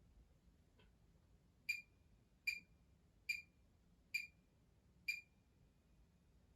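Five short electronic beeps from a Siemens WM14T490 washing machine's control panel, evenly spaced a little under a second apart, after a faint click.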